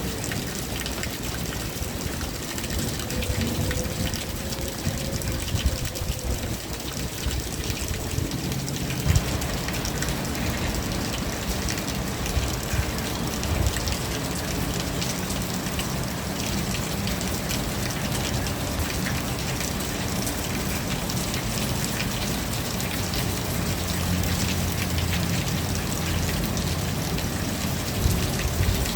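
Steady rain falling, a dense hiss with fine ticks of drops. For the first few seconds a faint whine sits under it; from about nine seconds in the rain sounds fuller and heavier.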